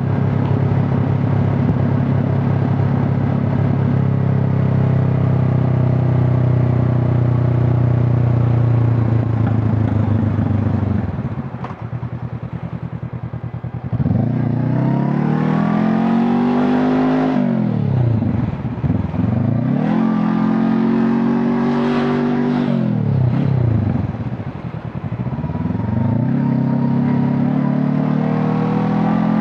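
Honda CB500 Hornet's parallel-twin engine and exhaust under way: running at steady revs, easing off for a couple of seconds, then accelerating with rising pitch, with quick up-shifts in between, a short lift off the throttle, and pulling again near the end.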